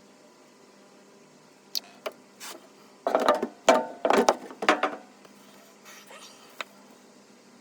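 A few sharp clicks, then a burst of loud knocks and clatter about three to five seconds in, and one more click near the end.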